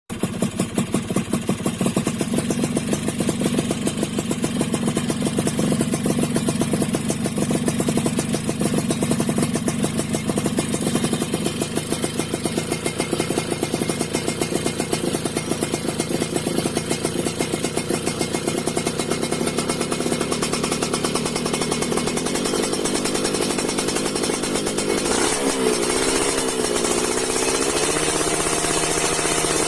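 A Yamaha F1ZR moped's two-stroke single-cylinder engine running through an aftermarket racing exhaust, idling with an even, rapid pulse. About 25 seconds in, the engine is revved lightly up and down a few times, then settles into a steadier tone.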